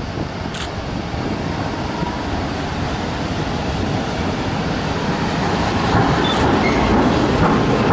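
Freight train hauled by a Siemens Vectron (Class 193) electric locomotive approaching and running past on the station track, a steady rumble growing louder as it nears, with a couple of brief faint high squeals near the end.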